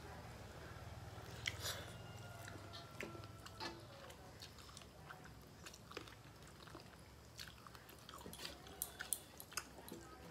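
Faint chewing and mouth sounds of people eating rice and curry by hand, with fingers working the food on metal plates: scattered small clicks and smacks, more of them near the end, over a low steady hum.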